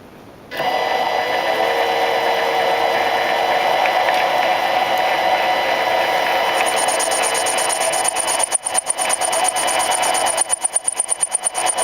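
Homemade Mills 0.75 cc contra-piston model diesel engine cutting in abruptly about half a second in and running at high speed with a steady high-pitched buzz. Near the end the running turns uneven, the sound pulsing rapidly.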